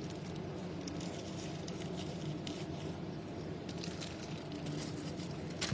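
Small clicks and light rustles of hands handling trading-card boxes and packs, with a sharper tap near the end, over a steady low hum.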